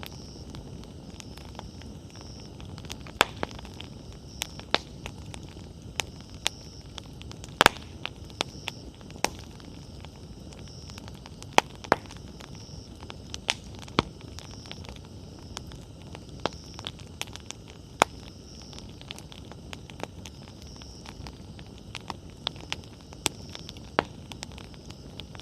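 Wood campfire burning: irregular sharp crackles and pops from the burning firewood, some much louder than others, over a steady low rush of the flames.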